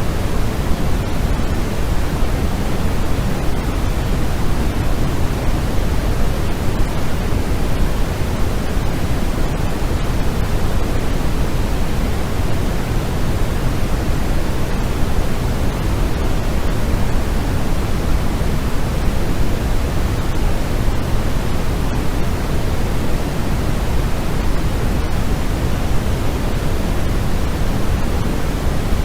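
Steady, unchanging white-noise sleep sound, an even hiss weighted toward the low end, with no rhythm or breaks.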